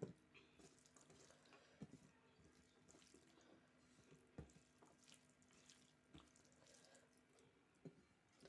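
Very faint wet eating sounds of a person chewing a mouthful of rice and dal, with a few small sharp clicks and smacks scattered through.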